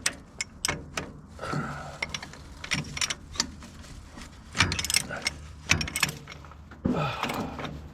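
Metal clicks and clanks of a hand tool being worked on the flywheel of an old Case backhoe's engine, ratcheting and catching at irregular intervals. The tool is slipping on the flywheel without turning the engine over.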